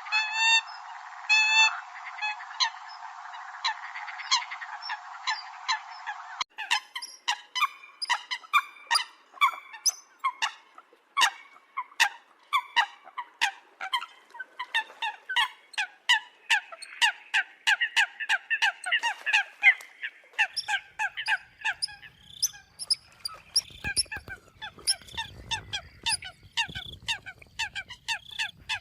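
Eurasian coot calls played as a bird-trapping lure: short, sharp honking calls repeated in quick series. About six seconds in the recording changes to a denser run of calls that sounds brighter and fuller.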